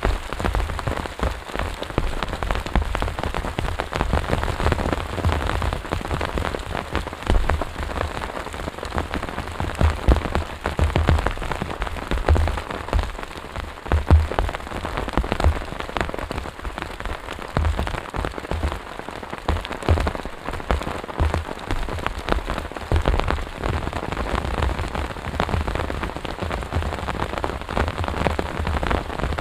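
Heavy rain falling steadily, with many close drops striking in quick, irregular taps and low thuds.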